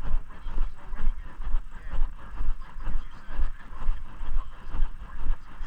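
Footsteps at a steady walking pace, about two a second, with low rumbling jostle on the body-carried microphone.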